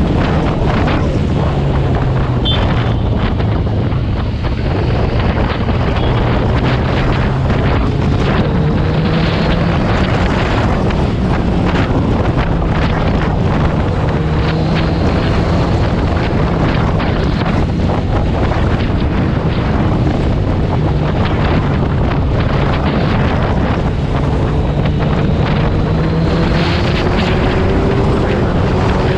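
Motorcycle engine running on the move at a steady drone that shifts a little in pitch, under heavy wind buffeting on the microphone.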